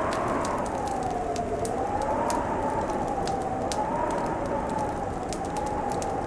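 Wood fire crackling with frequent sharp pops over a steady rushing noise, with a howling wind whose pitch slowly rises and falls.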